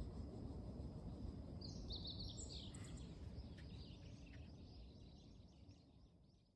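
Meadow bunting singing one phrase of quick, high chirping notes about two seconds in, over a steady low ambient rumble; the sound fades out near the end.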